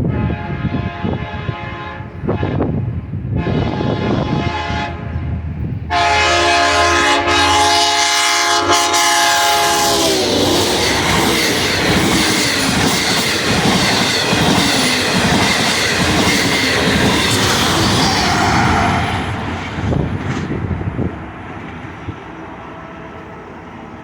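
Long Island Rail Road DM30AC locomotive sounding its horn in several blasts as it approaches. The last blast is long and loud, and its pitch drops as the locomotive passes. The train then rushes by at speed with wheel clatter, fading away near the end.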